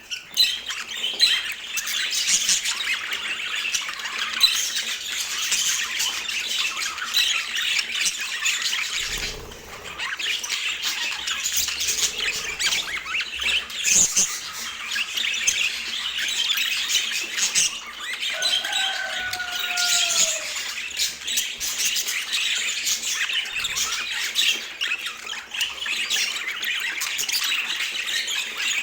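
Budgerigars chattering and warbling continuously in a dense stream of short, high squawks and chirps. There is a short lull about a third of the way in, and one lower, falling call about two-thirds through.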